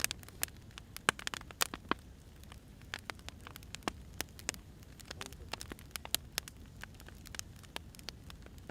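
Wood fire crackling, with irregular sharp pops several times a second over a low steady rumble.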